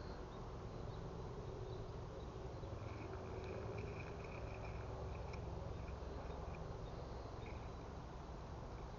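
Quiet outdoor ambience: a steady low rumble with faint high chirping, mostly from about three to five and a half seconds in and briefly again near the end.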